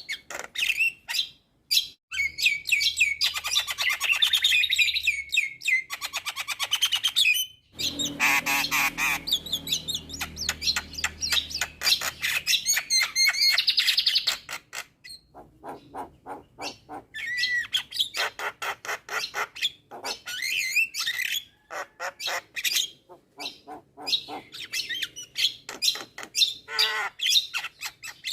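Javan myna (jalak kebo) in vigorous full song: a fast run of chattering chirps, harsh squawks and whistled notes packed with imitated calls. The song breaks off briefly three times.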